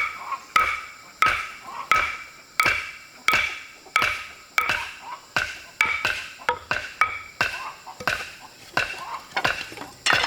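A steady series of sharp strikes from a hand tool, about three every two seconds, each with a short ring.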